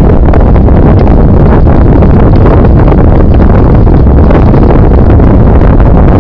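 Loud, steady wind buffeting on the microphone of a camera carried on a moving bicycle, a dense low rumble with no break.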